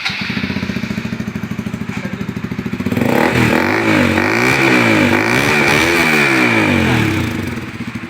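Bajaj Pulsar RS200's single-cylinder engine through a loud full-system aftermarket exhaust. It comes in abruptly and idles with a steady pulse, then is revved up and down twice before settling back to idle near the end.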